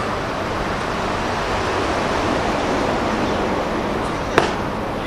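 Steady rushing noise with a low rumble, like wind on an outdoor microphone, broken by a single sharp crack a little past four seconds in.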